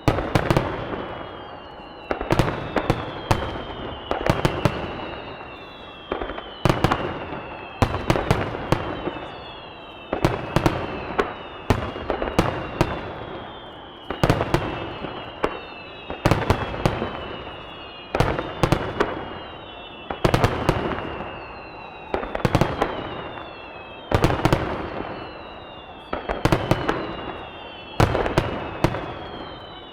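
Aerial firework shells bursting in rapid clusters of sharp bangs about every two seconds, each cluster trailed by falling whistles.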